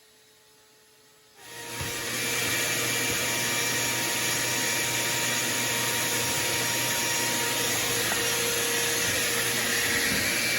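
Water pouring in a steady stream into the sump pit to test the sump pump. It starts about a second and a half in and runs at an even level.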